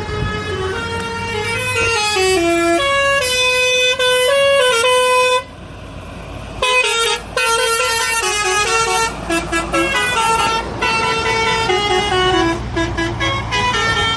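Vehicle horn blaring in long held blasts: about five seconds of honking, a break of about a second, then honking again for most of the rest, its pitch shifting in steps.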